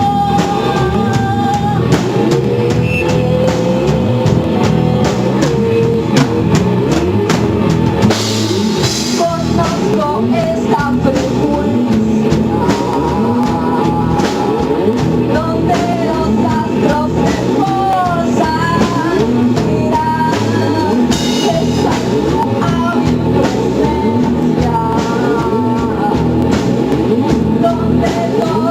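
Rock band playing: drum kit and guitars with a singer's voice carrying the melody.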